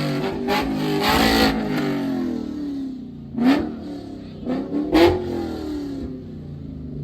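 Car engine revved in several quick throttle blips, each a sharp rise in pitch that falls slowly back toward idle.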